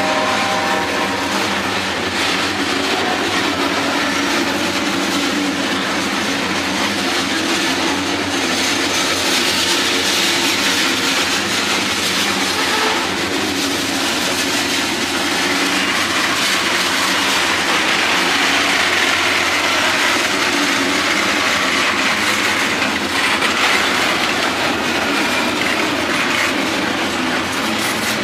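Freight train's covered hopper and tank cars rolling past: steady noise of steel wheels running on the rails.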